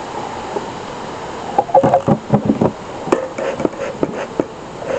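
A bee smoker's bellows being pumped hard: a quick, irregular run of air puffs and knocks starting about a second and a half in, as they try to get a smoker going whose fuel was not heated up enough.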